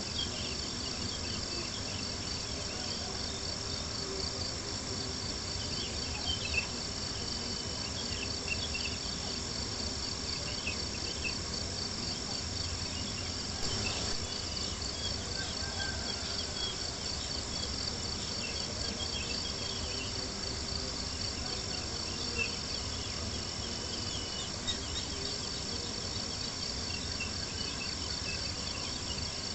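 Crickets chirping steadily in a fast, even trill, with a few sharp crackles from a campfire scattered through and a low steady rumble underneath.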